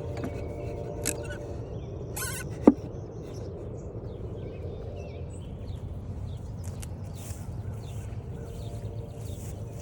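Birds chirping in short scattered calls over a steady low outdoor background. About two and a half seconds in comes one loud, very brief sound that slides quickly down in pitch.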